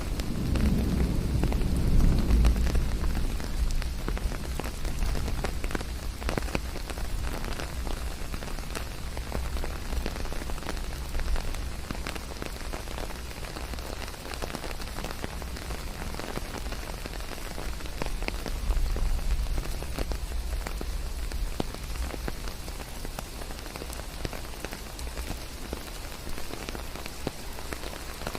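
Steady rain falling on forest leaves, an even hiss dotted with many separate drop ticks. A low rumble of thunder dies away in the first few seconds.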